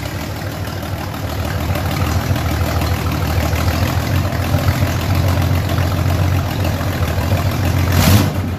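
1967 Ford Mustang's 200 cubic-inch inline-six engine running steadily, gradually getting a little louder. A sharp knock sounds near the end.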